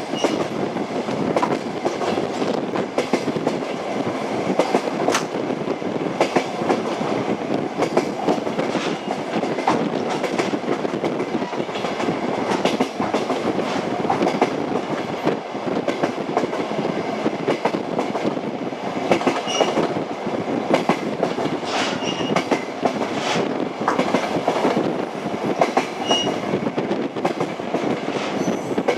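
Passenger train running, its wheels clattering over the rail joints: a steady rumble scattered with irregular knocks, with a few brief faint high squeaks in the second half.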